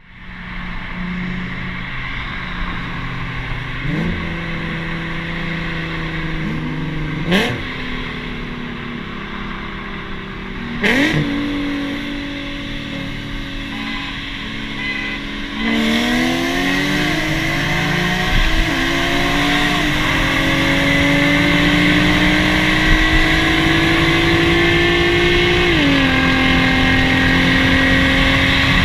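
Nissan Z V6 through a full ISR exhaust, pulling through the gears. The engine note climbs slowly and drops back at each upshift, several times, with a sharp pop at two of the shifts in the first half.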